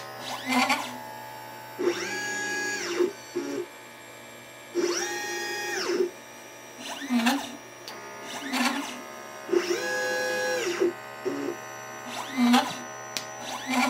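Stepper motors of a LitePlacer pick-and-place machine moving its head: each move is a whine that rises in pitch, holds, then falls as the motors speed up and slow down. There are three longer moves and several short quick ones between them.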